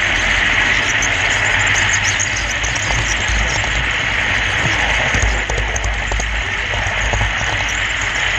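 Model railroad camera car rolling along the track: a steady rolling hiss and low rumble of wheels on rail, with faint light clicks.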